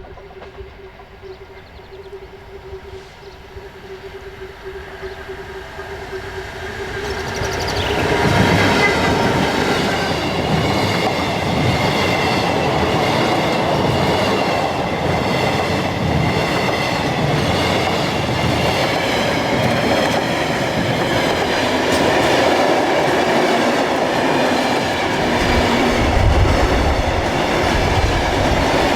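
A train passing close by: a steady tone for the first several seconds, then the train arrives loudly about eight seconds in, and its wheels clatter over the rail joints until the end.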